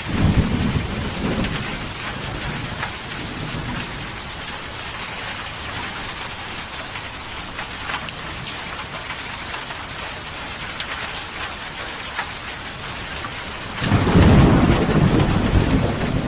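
Steady rain falling, with thunder rumbling at the start and fading over a couple of seconds, then a louder roll of thunder starting near the end.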